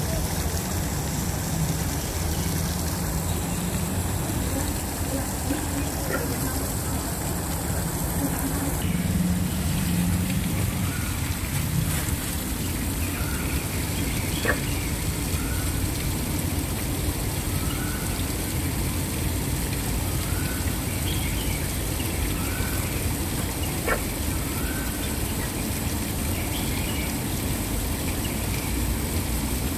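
Waterfall rushing steadily. In the middle, a bird gives a short call over and over, about one every second or so.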